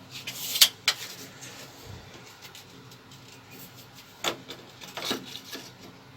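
A few sharp knocks and clicks, a cluster of them in the first second and two more later, over a faint steady hum.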